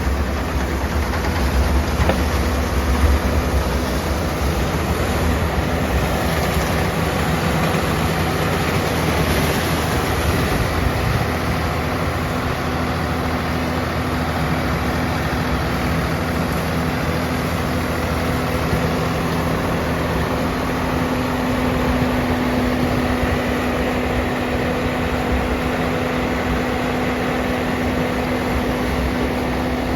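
Swaraj 969 FE tractor's diesel engine running steadily with a rotavator, a continuous drone with a hum that grows a little stronger about two-thirds of the way through.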